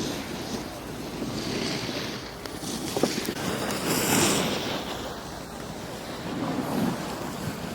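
Wind rushing over the microphone while riding downhill, mixed with the scrape of edges sliding across packed snow. The noise swells and fades in surges, with a sharp click about three seconds in.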